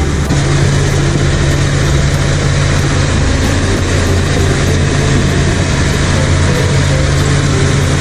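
XCMG crawler bulldozer's diesel engine running steadily as the machine pushes a mound of earth, a deep steady engine note under a heavy wash of mechanical noise.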